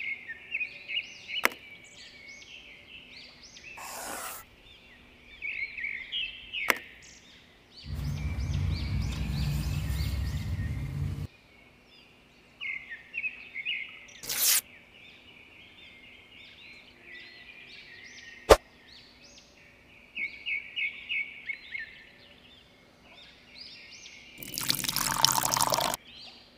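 Small birds chirp in repeated short bursts, with a few sharp clicks. About eight seconds in there is a three-second pouring sound of water into a small metal tray, and near the end a rush as powder is tipped from a miniature steel bucket.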